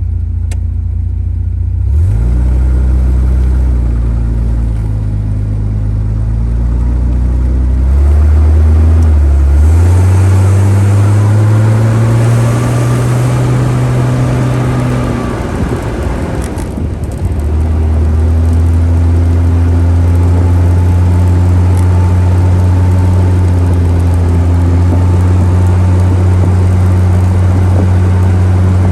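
Panther J72's 4.2-litre DOHC straight-six engine pulling the car along the road. Its note climbs steadily from about eight seconds in to around fifteen seconds, dips briefly around sixteen seconds, then holds a steady cruising note.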